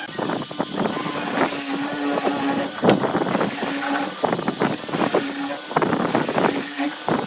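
Workshop tool noise: a steady hum that cuts in and out several times, with irregular knocks and scrapes throughout.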